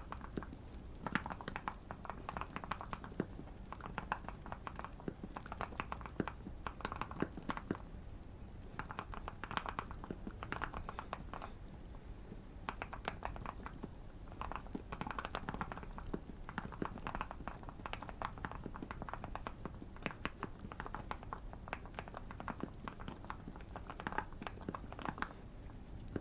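Typing on a Keychron Q1 custom mechanical keyboard fitted with tape and PE-foam mods, with deep keystrokes coming in quick bursts separated by short pauses. A faint fireplace crackle runs underneath.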